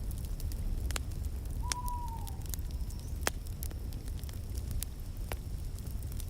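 Wood fire burning in a fireplace: a steady low rumble with sharp crackles and pops every second or so. About two seconds in, a single short call holds one note and then drops away at its end.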